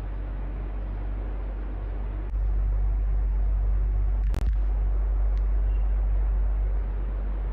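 Electric fan running with a steady whir over a low hum. The low hum grows louder about a third of the way in and eases near the end, with one sharp click a little past halfway.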